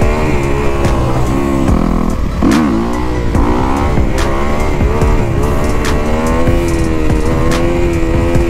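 2021 Kawasaki KX250's four-stroke single-cylinder engine revving on a dirt bike during wheelie practice, its pitch rising and falling with the throttle and dropping sharply then climbing again about two and a half seconds in.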